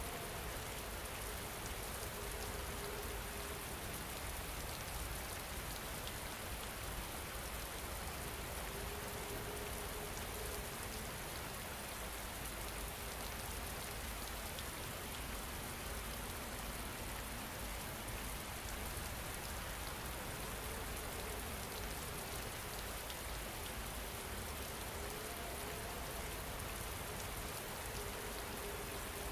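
Steady rain falling, an even, unbroken hiss of drops on a surface, with a faint low held tone drifting in and out now and then.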